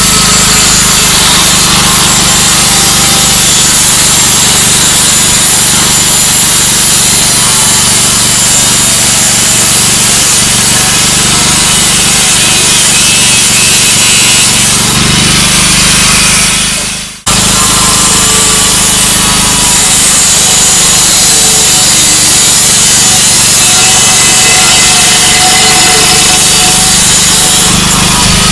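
Power saw cutting through the exhaust pipe to take the muffler off, loud and continuous, with a brief stop about 17 seconds in.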